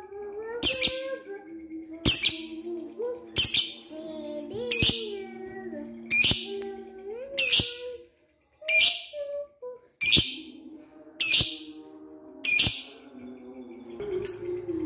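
Lovebird giving short, shrill, harsh calls, one about every second and a half. A fainter, lower sound with gliding pitch runs beneath them. Near the end a few short, high clinking notes come in.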